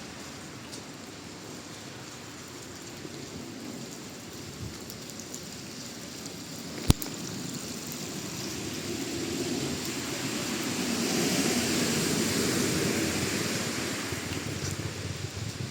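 Steady hiss of rain falling on a city street. About seven seconds in there is a single sharp click. After it, a vehicle passes on the wet road: its tyre rush swells over several seconds, then fades.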